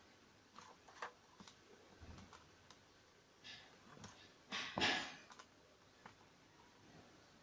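Light clicks and scrapes of plastic as a washing machine control board is pried out of its plastic housing, with a louder brief scrape or rustle about five seconds in.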